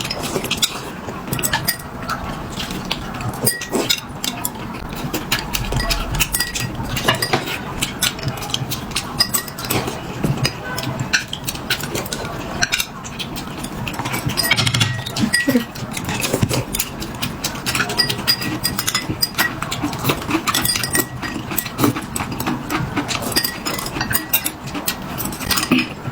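Eating at a table: utensils clinking against bowls and plates, with many irregular sharp clicks throughout.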